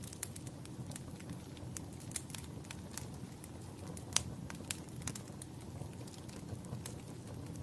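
Wood fire crackling in a fireplace: irregular sharp pops and snaps over a steady low rumble of the burning fire, one louder pop about four seconds in.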